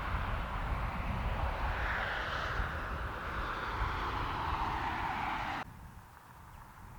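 Steady engine rumble with a broad rushing noise, like a vehicle or craft under way. It drifts slightly lower in pitch and cuts off abruptly about five and a half seconds in, leaving a much quieter background.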